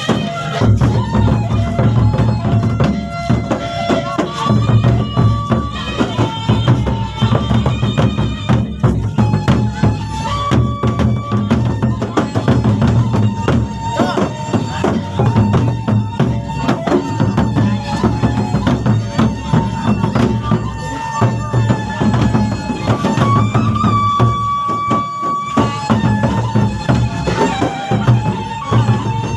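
Gendang beleq ensemble playing: large barrel drums beat a dense, driving rhythm while a reed wind instrument holds long, wavering melody notes over them.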